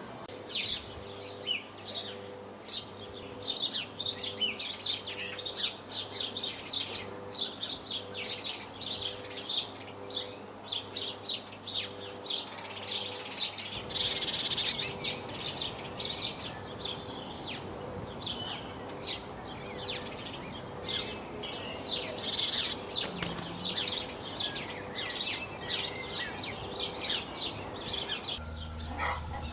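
Small songbirds chirping and calling: a dense run of short, high chirps that keeps going throughout, with the background changing about halfway through.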